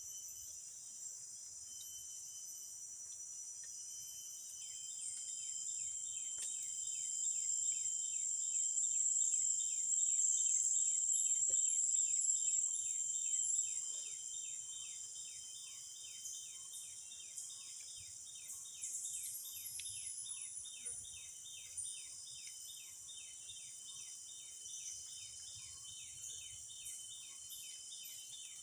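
Chorus of insects: a steady high-pitched buzz that swells louder in the middle, with a cricket-like chirping repeating about three times a second from about four seconds in.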